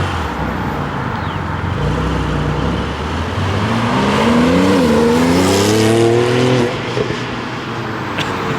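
Car engine accelerating away on a stock exhaust: its note climbs, dips once at a gear change about halfway through, climbs again and then drops off sharply, with a lower engine rumble underneath before it.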